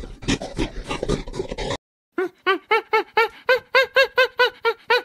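A monkey giving a rapid series of short squeaky calls, each rising and falling in pitch, about four a second. They start after a brief break about two seconds in, which cuts off a dense, irregular crackling noise.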